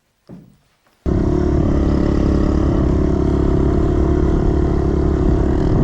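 110cc single-cylinder four-stroke pit bike engine running at a steady pace; it cuts in abruptly about a second in.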